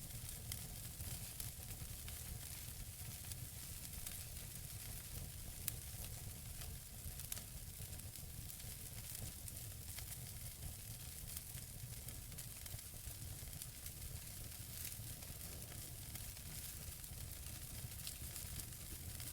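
Wood fire burning in a fireplace: a steady soft hiss over a low rumble, with scattered sharp crackles and pops from the burning logs. The loudest pop comes about six seconds in.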